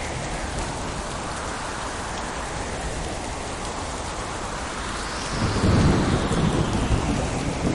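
Steady heavy rain, with a low rumble of thunder rolling in about two-thirds of the way through and growing louder.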